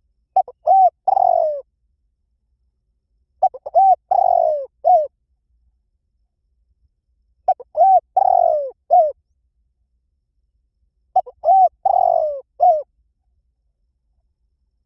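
Spotted dove cooing: four phrases evenly spaced about four seconds apart. Each is a couple of quick short coos, then a longer coo falling in pitch, then a short closing coo.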